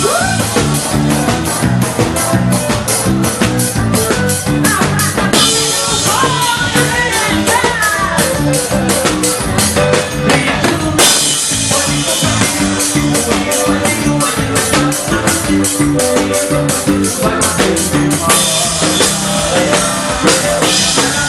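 Live forró band playing an instrumental passage: a steady, driving drum beat under a melodic lead line.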